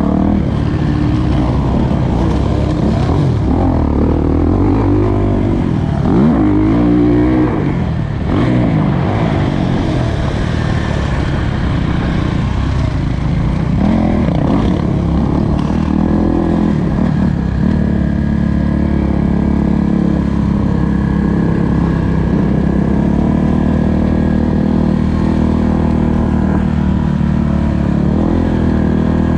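Kawasaki KX450 four-stroke single-cylinder motocross bike engine under load on a track lap, revving up and down. Pitch rises and drops quickly several times in the first several seconds, then holds a steadier note in the second half.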